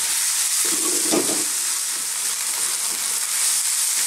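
Chopped onions, garlic-ginger paste and curry leaves sizzling in hot oil in a non-stick wok on high heat, stirred with a wooden spatula, with a louder scrape of the spatula about a second in.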